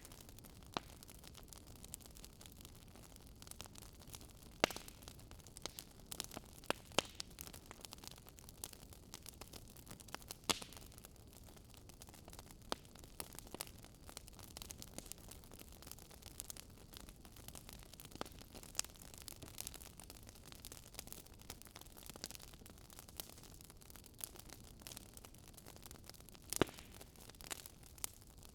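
Wood fire crackling in a fireplace: irregular sharp pops and snaps of burning logs over a faint steady hiss, with a few louder pops scattered through.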